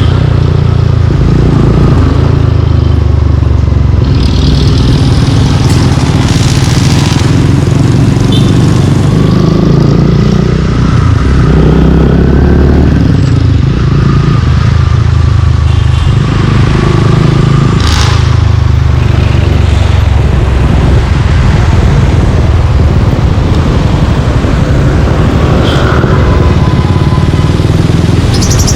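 Suzuki Gixxer 155's single-cylinder engine running through an aftermarket exhaust while riding, its note rising and falling with the throttle. A few brief sharper sounds cut in along the way.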